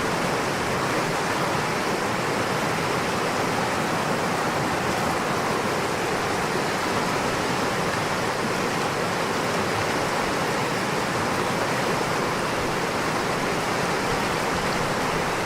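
Steady rushing of running water, an even hiss with no separate splashes or other events.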